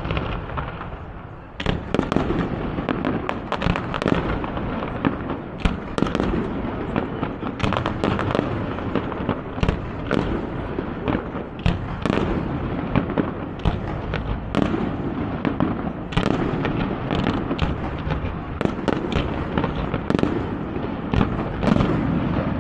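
Fireworks display: an unbroken run of sharp bangs and pops, several a second and irregularly spaced, over a constant crackling rumble.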